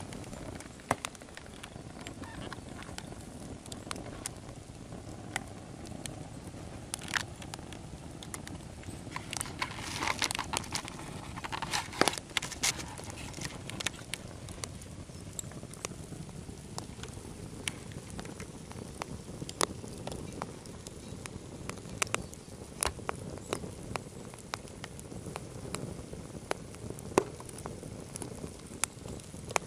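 A Swedish torch (an upright log split into sections and burning from the top) crackling, with scattered sharp pops throughout and a denser run of crackles about ten to thirteen seconds in, over a steady low rush.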